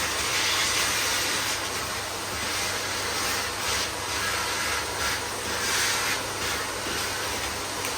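Miele vacuum cleaner running with a steady motor hum and suction whoosh that swells and eases about once a second as the nozzle is pushed back and forth.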